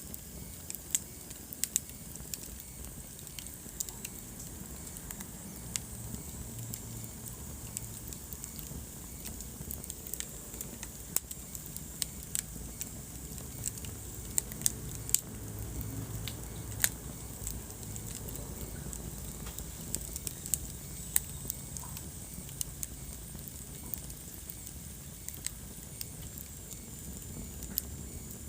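Wood fire burning in a fireplace: irregular sharp crackles and pops, a few of them loud, over a low steady rumble of the flames.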